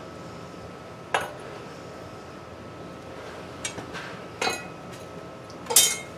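A few light metallic clinks and knocks, about four over several seconds with a short ring after each, the loudest near the end, over a steady low hiss.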